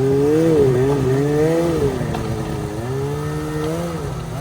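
Snowmobile engine being worked on and off the throttle, its pitch rising and falling several times over a steadier low running note.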